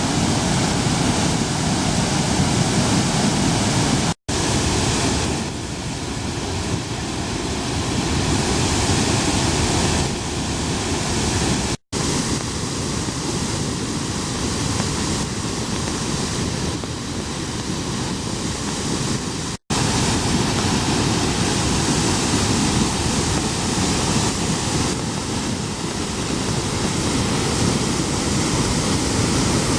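Water gushing from the outlets of a masonry dam during a flood release: a loud, steady rushing noise. It breaks off for an instant about four, twelve and twenty seconds in, where the recording cuts.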